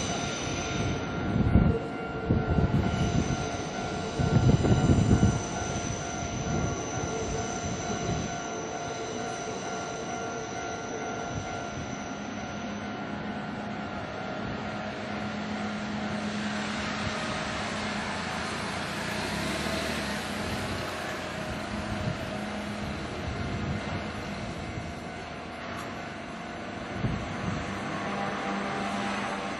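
Kintetsu Nara Line train passing over a level crossing: heavy wheel thumps over the rail joints in the first six seconds, then a steady hum that fades away by about halfway. A broad rushing noise swells and fades in the second half.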